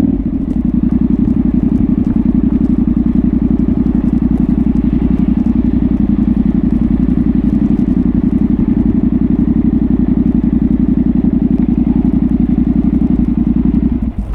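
Yamaha Ténéré 700's 689 cc CP2 parallel-twin engine running at a steady pace through a Dominator GP1 aftermarket exhaust, heard onboard the motorcycle. The engine sound drops away abruptly near the end.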